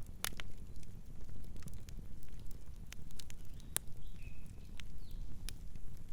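Campfire crackling: irregular sharp pops and snaps over the low, steady rumble of the burning fire.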